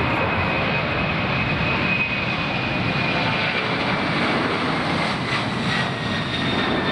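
Airliner engines passing close by, a loud steady rush with a high whine that slowly falls in pitch as the plane goes past.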